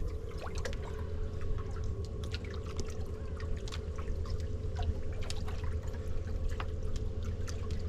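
Water pouring and trickling with scattered drips and splashes, over a steady low machine hum.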